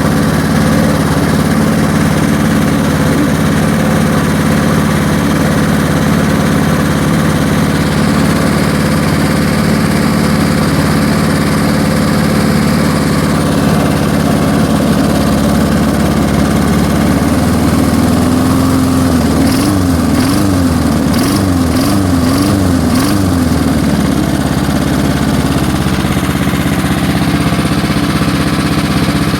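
1978 Allis-Chalmers 19-inch push mower's small engine running steadily after about ten years of sitting, on gas dosed with PB Blaster to soften its dried carburetor diaphragms. A little past halfway its speed rises and falls about once a second for several seconds, then settles back to an even run.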